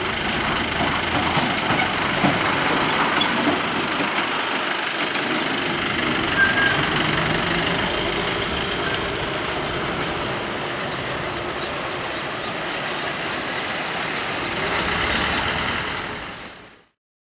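Heavy vehicles' engines running steadily at a hairpin bend, with a few small knocks. The sound fades out near the end.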